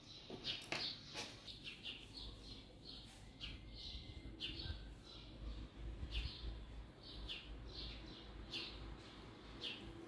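Small birds chirping in short, high chirps, one or two a second, on and off. About a second in there are a few sharp clicks as thin wooden skewers are handled.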